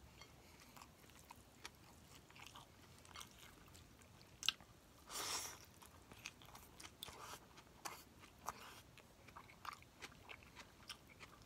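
Faint chewing, with small wet mouth clicks, of a person eating chicken, rice and boiled greens by hand. A sharper click comes about four and a half seconds in, and a brief rush of hiss-like noise follows just after.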